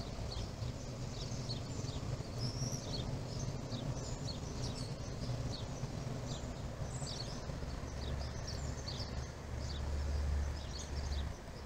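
Small birds chirping in quick, repeated short calls over a steady low rumble. The rumble swells about two-thirds of the way through, then drops away just before the end.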